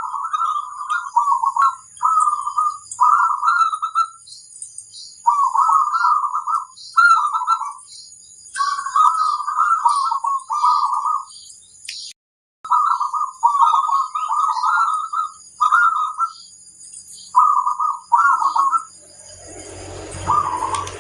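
Zebra dove (perkutut) cooing: a run of warbling coo phrases, each about a second long, repeated with short pauses between them. Near the end a broad rustling noise rises under the last phrase.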